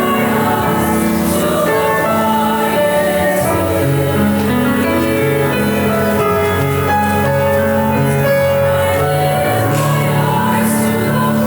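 School chorus singing with musical accompaniment, held notes moving steadily with no breaks.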